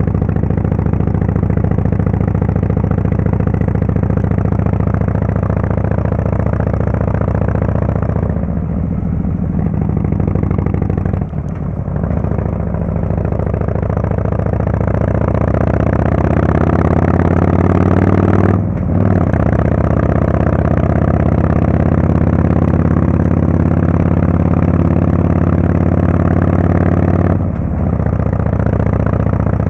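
Harley-Davidson Fatboy S Screamin' Eagle Twin Cam 110 V-twin running under way through its Kesstech exhaust. The throttle eases off briefly about a third of the way in, then the engine climbs steadily in revs for several seconds, drops sharply at a gear change, and runs on steady with one more short lift off the throttle near the end.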